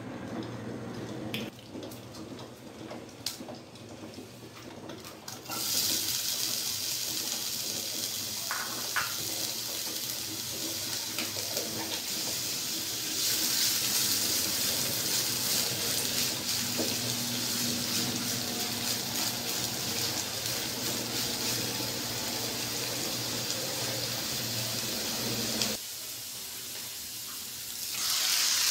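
Chopped onions sizzling in hot oil in a frying pan as they are stirred; the sizzle sets in suddenly about five seconds in and runs as a steady hiss. Near the end it drops briefly, then swells again as chicken in spice paste is tipped into the pan.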